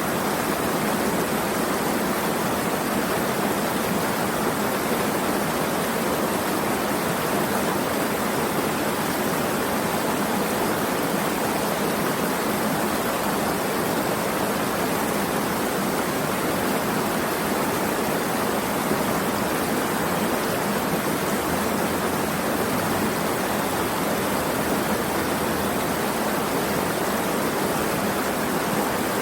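Running water rushing steadily, an even, unchanging wash of sound like a stream or small waterfall.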